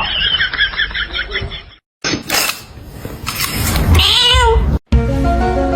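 A cat meowing, with one drawn-out call about four seconds in, between abrupt cuts. Music starts just before the end.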